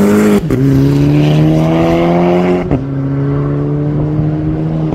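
Car engine accelerating hard through the gears. Its pitch climbs, drops at a gear change about half a second in, rises again and drops at a second shift just before three seconds, then holds steady.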